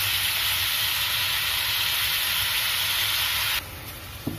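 Chicken pieces frying in hot oil in a pan, a steady sizzling hiss that cuts off suddenly about three and a half seconds in.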